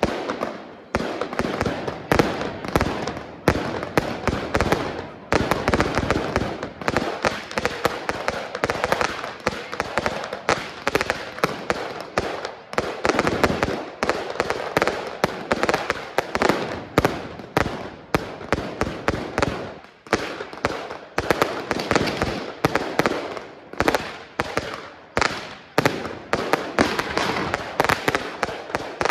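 Fireworks going off in a dense, unbroken barrage: a rapid string of bangs and crackles, several a second, with heavier reports about every second.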